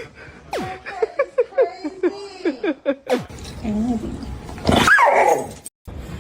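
A dog vocalizing: a quick run of short pitched yips, then a lower wavering whine and one louder call that rises and falls about five seconds in.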